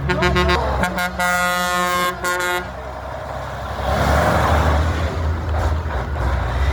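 Car horn blaring for about two seconds, briefly broken twice, over idling engines, then a loud rush of engine and exhaust noise as a car pulls away about four seconds in.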